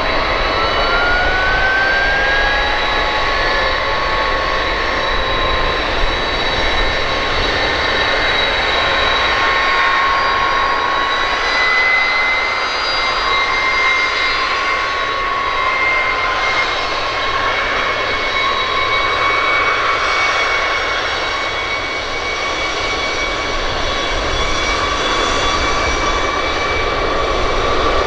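KDC-10 Extender's General Electric CF6-50 turbofan engines running, a steady rush with several high whining tones. The whine climbs in pitch in the first couple of seconds and shifts up again a little before the middle.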